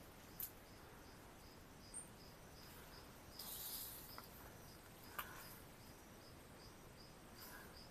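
Faint, evenly repeating insect chirps, about two and a half a second, with a few scattered sharp clicks and a brief high rustle near the middle.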